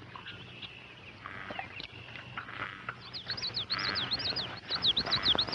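Woodland birds chirping; from about three seconds in, one bird gives a fast run of sharp, high chirps, about five a second. A low steady hum runs underneath.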